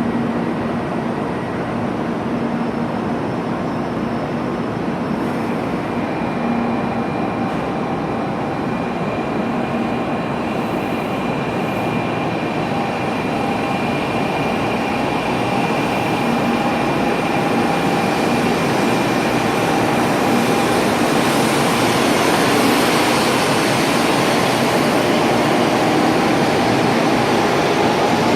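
Shinkansen train pulling out, a steady rolling rumble with a faint electric whine that grows gradually louder over the second half as it gathers speed.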